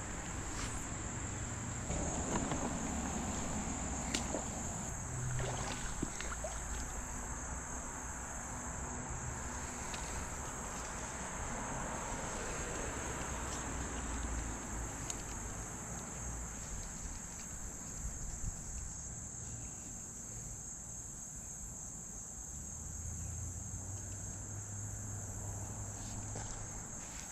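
A steady, high-pitched chorus of insects chirring, with a low rumble and a few faint clicks underneath.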